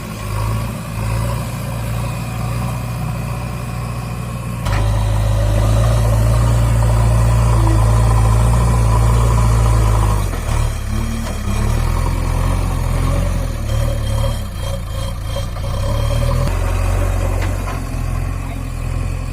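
JCB 3DX backhoe loader's diesel engine running, stepping up to a louder, heavier note about four and a half seconds in, then rising and falling unevenly from about ten seconds as the machine works under varying load.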